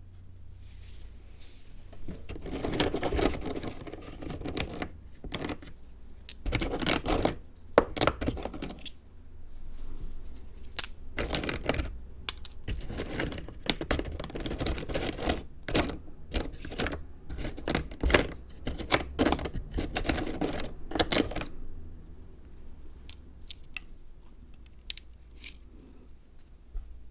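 Hands working the materials of a miniature dry zen garden diorama: repeated bursts of scraping and rustling with sharp small clicks, stopping about two thirds of the way through and leaving only a few faint ticks.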